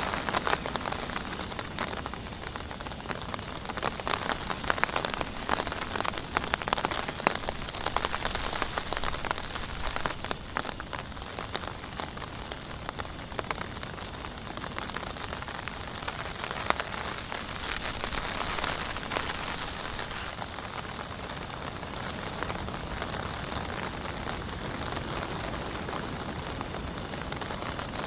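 Heavy rain falling steadily, with many separate drops hitting a surface close by, densest in the first half.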